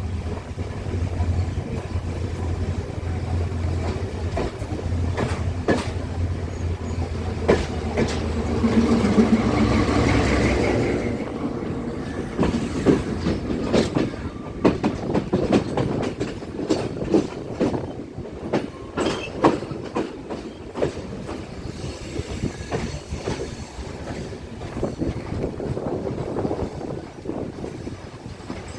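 Diesel train running on the rails, heard from on board. A steady low engine drone swells louder around the ten-second mark and then fades, leaving the wheels clicking and knocking over rail joints for the rest of the time.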